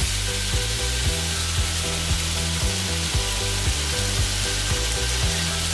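Tomato sauce sizzling steadily in a hot frying pan over smoked herring fillets, with background music and its bass line.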